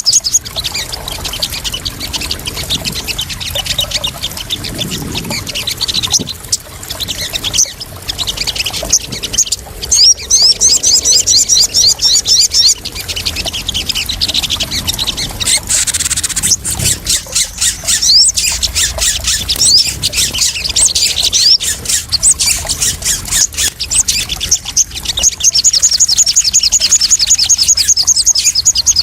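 Sogon (sunbird) calling in rapid, high-pitched trills that come in runs of a few seconds, over the sound of splashing water.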